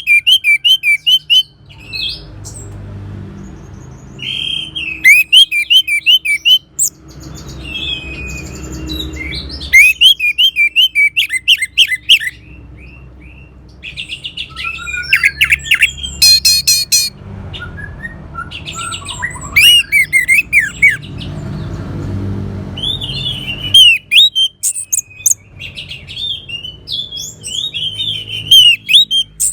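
Orange-headed thrush singing: bursts of quick, loud chirping and whistled notes in phrases of a second or two, broken by short pauses, over a faint low hum.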